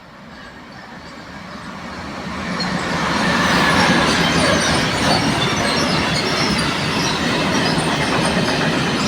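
Freight train rolling past on the rails: the rumble and clatter of its wheels grow louder over the first few seconds, then hold steady. Scattered high-pitched wheel squeals run through it.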